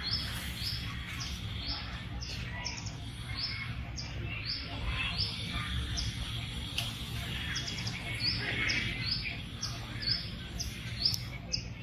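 A bird chirping over and over, short high chirps repeating evenly about twice a second, over a steady low background rumble.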